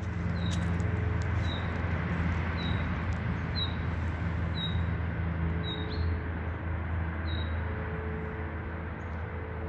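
A bird repeating one short, high, slightly falling call about once a second, over a steady low hum and a background hiss.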